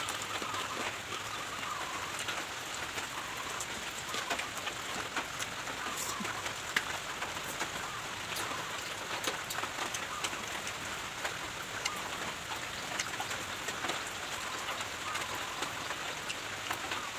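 Light rain falling: a steady hiss of rain with many small separate drops pattering on a surface.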